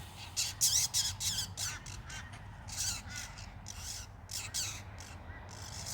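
A group of birds calling close by: many short, high-pitched calls in quick succession, several birds overlapping.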